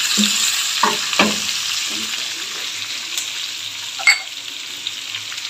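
Sliced onions and mutton sizzling in hot oil in a stainless-steel pot, with a wooden spatula knocking and scraping against the pot a few times in the first second and a half. A single sharp clink about four seconds in.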